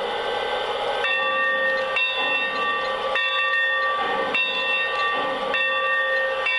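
Lionel Legacy O-scale steam locomotive's onboard sound system as the train moves off: steam hiss with a chord of steady tones that sounds again about once a second.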